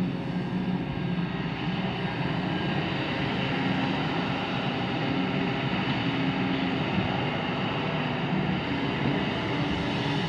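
Kobelco SK200 hydraulic excavator's diesel engine running steadily.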